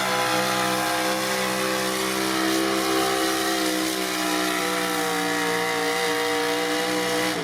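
Modified gasoline pickup truck engine running hard at high, nearly steady revs while pulling a sled, with a slight sag in pitch midway; the throttle comes off and the engine note drops at the very end of the run.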